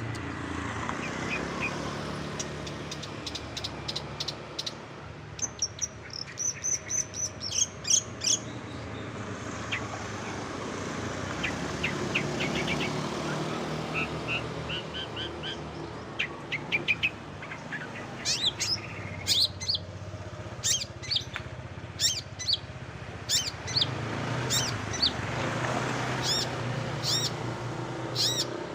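Songbird singing in quick series of sharp, high-pitched chirps and short trills, in clusters that grow denser in the second half, over a steady low rumble.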